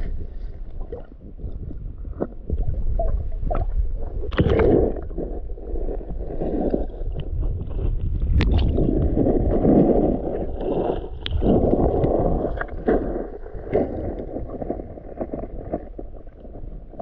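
Creek water sloshing and splashing irregularly around hands held in the shallows, with scattered small clicks and swells, while a smallmouth bass is held in the current to revive it before release.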